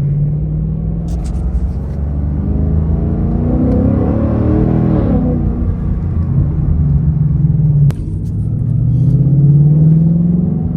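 Ford Mustang GT's 5.0-litre V8 engine running as the car drives, with a low rumble. The engine note rises and falls around the middle, drops suddenly with a click about eight seconds in, then climbs again.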